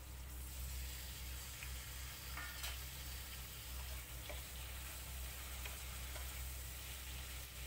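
Star fruit slices sizzling softly in hot masala in an aluminium kadhai as a wooden spatula stirs them, with a few faint scrapes and clicks against the pan.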